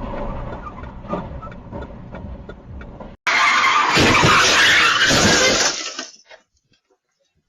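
Car road noise with a few light knocks, then, after an abrupt cut, a loud harsh tyre skid lasting about two and a half seconds that fades out into silence.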